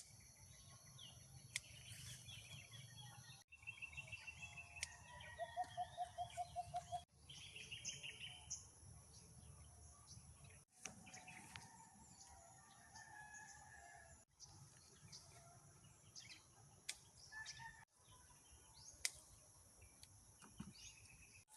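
Faint rural ambience: chickens clucking and a rooster crowing, small birds chirping, and a steady high insect buzz. The sound breaks off abruptly every few seconds.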